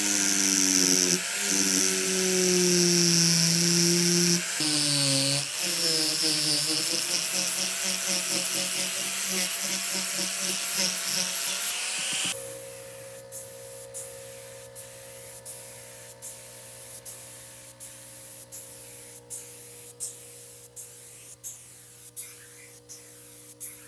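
A handheld power tool's motor runs at high speed with a whine that dips in pitch a few times as it is loaded. It cuts off about halfway through, and background music with held chords and an even beat follows.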